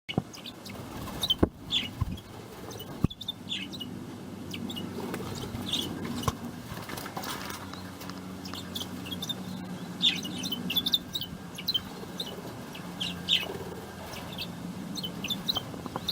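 A pair of rosy Bourke's parrots chirping: short, soft, scattered calls, often several close together, over a low steady hum.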